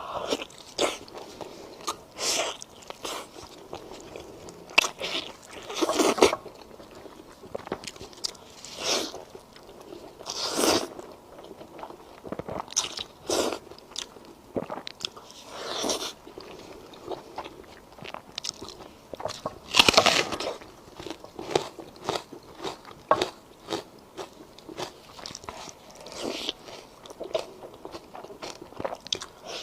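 Close-miked eating: a person biting and chewing food, with irregular crunchy bites and wet mouth sounds every second or so. The loudest crunch comes about twenty seconds in.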